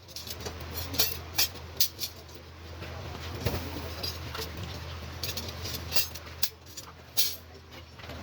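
Scattered light clinks and taps of metal being handled during blacksmith work, a dozen or so irregular strikes, over a low steady hum.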